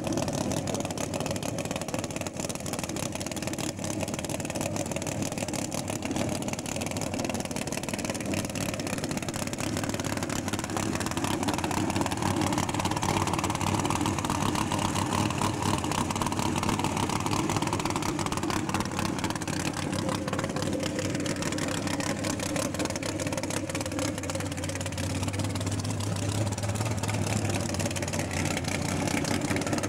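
V8 engine of a Mk1 Ford Cortina drag car running steadily at idle.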